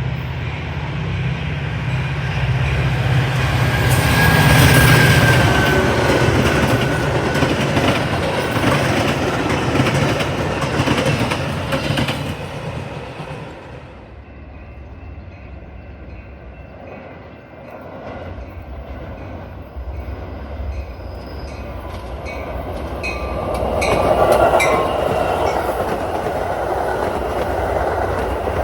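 Train rolling past on the rails, wheels clattering over rail joints, with a brief high wheel squeal a few seconds in. The sound drops away about halfway through, then builds again to a second loud pass with quick clicks.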